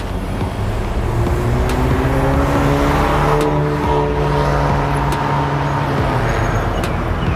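Exhaust note of a Honda Civic FC's 1.5 turbo inline-four through a custom stainless-steel downpipe and front exhaust, the revs climbing for a couple of seconds and then held fairly steady before easing off slightly.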